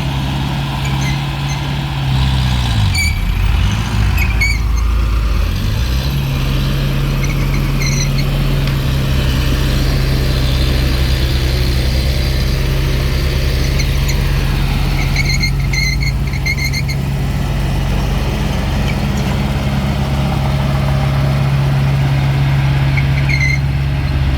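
Mini bulldozer's diesel engine running steadily, its pitch dipping about three seconds in and climbing back a couple of seconds later. Short high squeaks from the steel tracks come in several times.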